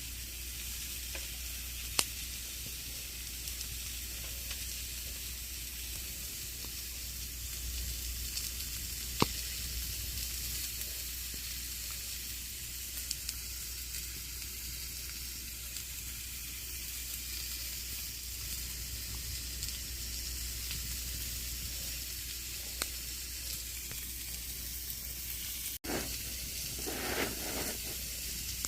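Campfire burning with a steady hiss and scattered crackles, with two sharp pops about 2 and 9 seconds in. Near the end the sound cuts out for an instant, then returns with a brief rustling flare.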